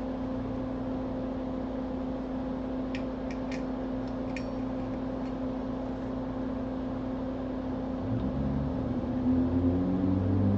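Steady electrical hum of soldering-bench equipment, with a few light clicks about three to four and a half seconds in. The sound grows louder with a shifting low tone near the end.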